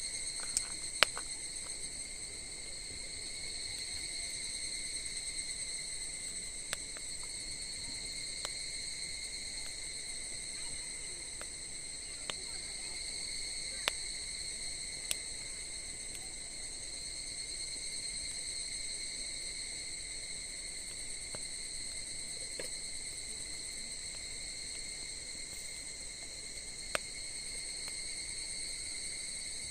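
Wood campfire crackling with scattered sharp pops, over a steady high-pitched cricket chorus.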